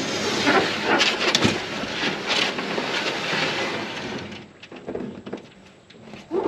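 Rustling and crinkling of litter being gathered up by hand, a rough crackling wash for the first four seconds or so that thins into scattered clicks and knocks, with a sharp knock near the end.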